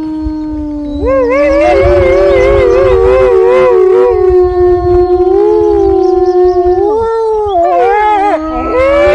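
Wolves howling in chorus. One long held howl is joined about a second in by several more voices, overlapping with wavering, warbling pitches, and the chorus carries on loudly.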